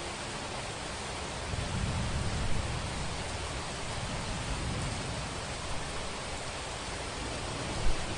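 Steady hiss of heavy rain, with a low thunder rumble swelling about two seconds in and a sharper thunderclap near the end.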